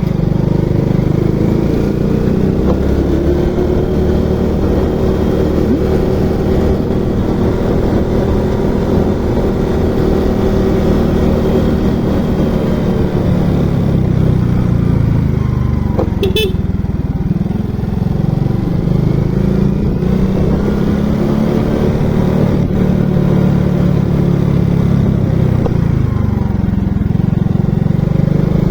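Motorcycle engine running steadily, its pitch rising and falling slowly as the revs change. About sixteen seconds in there is a brief high-pitched sound.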